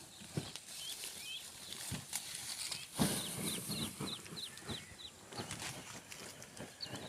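Dry corn plants rustling and crackling as ears are snapped off by hand, with one loud snap about three seconds in. Short high chirps repeat about twice a second from then on.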